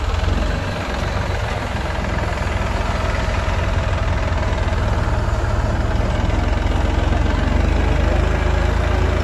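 Vehicle engine running steadily at idle, a loud, deep low rumble.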